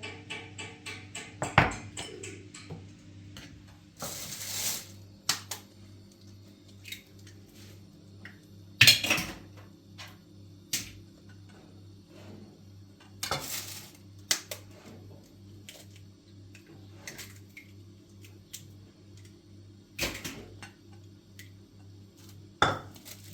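Irregular clicks, clinks and sharp knocks of objects being handled, the loudest about a second and a half in, nine seconds in and near the end, over a steady low hum.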